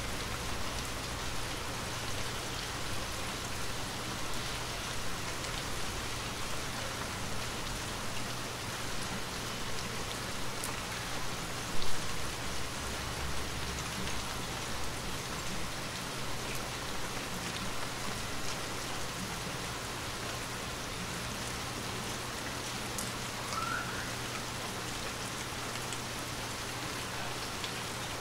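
Moderate rain falling on tree leaves: a steady hiss with scattered drop ticks. One brief, louder thump about twelve seconds in.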